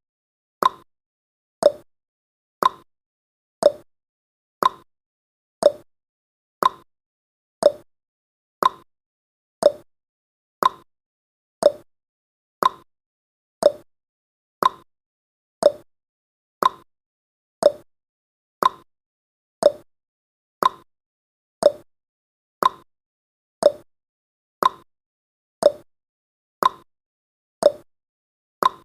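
Clock-style ticking sound effect of a countdown timer, one short sharp tick every second, each dying away quickly.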